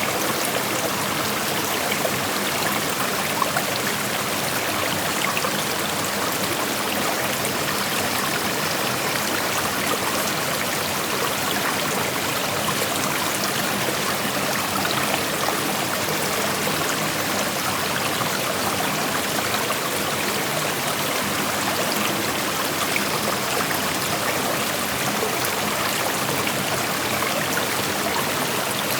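A shallow creek running over rocks: a steady, even rush of water with small splashes and trickles throughout.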